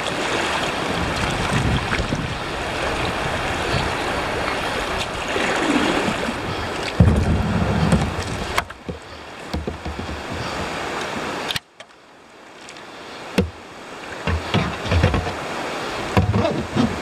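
Rushing whitewater of a river rapid, a steady hiss with low bumps and knocks now and then. It cuts off abruptly about two-thirds of the way through, then builds back up.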